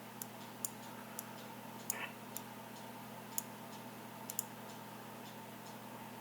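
Computer mouse clicking: about eight sharp, irregularly spaced clicks in the first four and a half seconds, some in quick pairs. They sit over a steady electrical hum.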